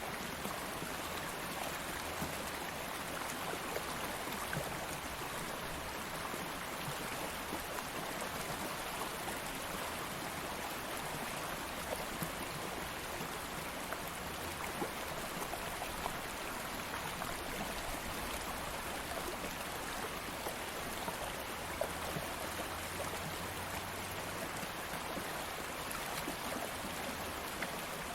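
Stream of flowing water running steadily, an even rushing wash with small splashes and gurgles now and then.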